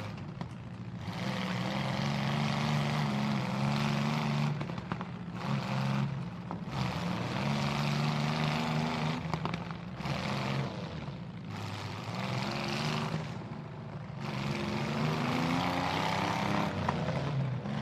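Demolition-derby mini-truck engines revving hard in repeated bursts of a few seconds each, the engine pitch climbing and dropping between them.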